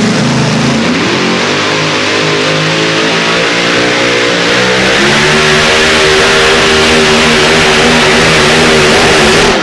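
Pulling tractor's engine at full throttle: the revs climb over the first couple of seconds, then hold high and steady under heavy load.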